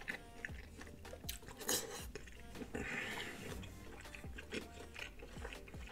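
A person chewing a mouthful of buttered lobster tail meat, with soft wet mouth sounds and scattered small clicks.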